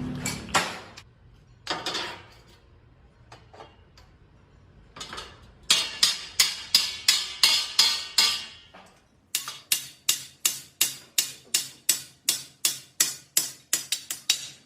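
Hammer blows on steel. There are two single strikes, then a run of quick, even strikes about three a second, a short pause, and another steady run at about three a second.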